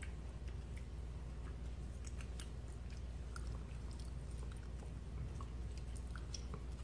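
Close-up chewing and mouth sounds of people eating, with scattered small clicks and taps of plastic forks on plates, over a steady low hum.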